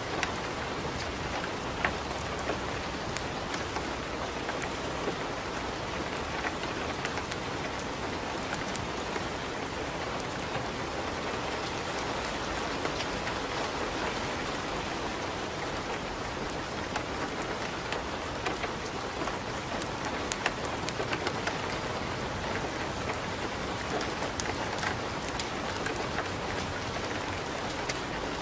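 Steady rain with a wood fire crackling in a fireplace, its sharp pops scattered throughout.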